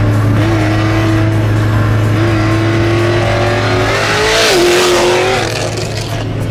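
Car engine running under way, its note climbing gradually as the car gathers speed, with a louder surge of acceleration about four and a half seconds in.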